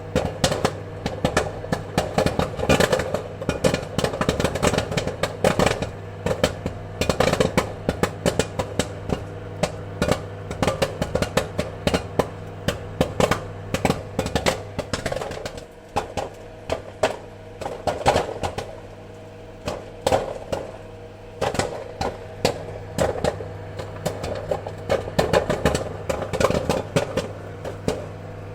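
Popcorn kernels popping in quick, irregular succession over a steady low hum; the pops thin out for a few seconds past the middle, then pick up again.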